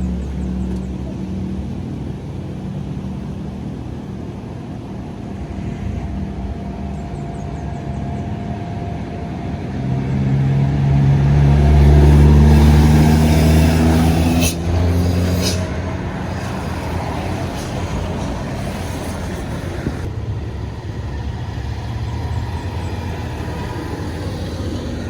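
Traffic going past, with the engine of a heavy vehicle growing louder and rising in pitch about ten seconds in as it passes close, then dropping away. There are two short sharp sounds near the loudest point.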